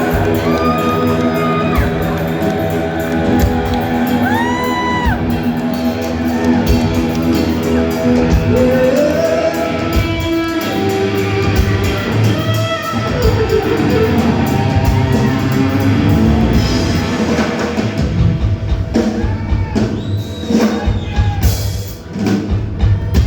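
Rock music played by a band: electric guitar, drum kit and a singing voice holding long notes.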